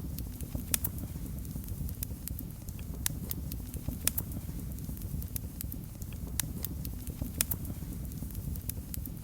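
Wood fire burning in a fireplace: a steady low rumble of flames with irregular sharp crackles and pops, several a second at times.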